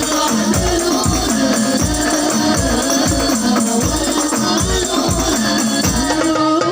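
Sholawat, Islamic devotional singing in Arabic, with a melodic sung line over jingling frame-drum percussion and a steady low drum beat.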